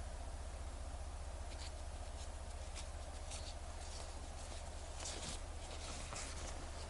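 Faint, scattered light scratches and clicks of small tools handling a wristwatch, over a steady low hum.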